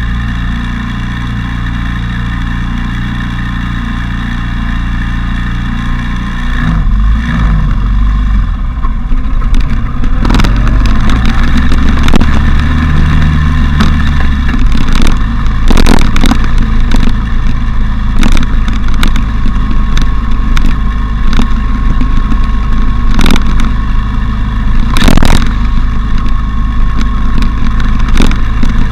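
Motorcycle engine running steadily at idle, then pulling away about six and a half seconds in. After that it is riding, with loud wind rush on the camera and many sharp thumps.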